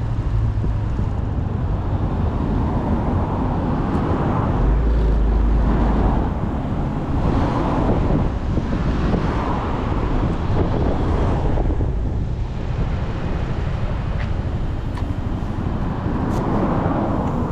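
Motorcycle engine running under way with road and wind noise, the broad noise swelling and fading several times as traffic passes.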